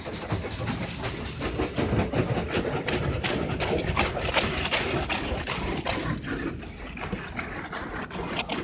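Automatic car wash equipment spraying and scrubbing over the car, heard from inside the cabin: a dense rushing and pattering that starts abruptly, over the car's engine idling.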